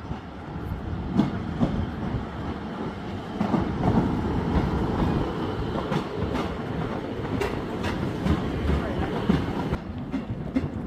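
Class 150 diesel multiple unit train running on the tracks close below, its engine rumbling steadily and its wheels clacking over the rail joints.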